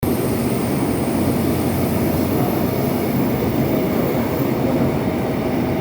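Seoul Subway Line 8 train running, a steady loud rumble and rush of wheels on the track with a faint high squeal.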